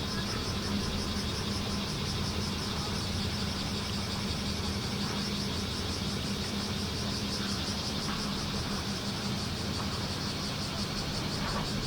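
Bear cicadas (kumazemi) singing in chorus, a continuous rapid pulsing buzz, over a steady low engine-like hum.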